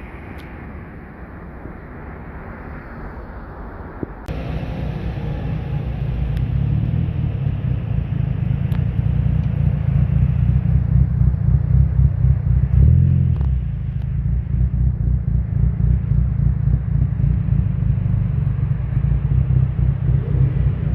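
Low, pulsing rumble of a car engine running close by. It gets abruptly louder about four seconds in, with a surge near the middle.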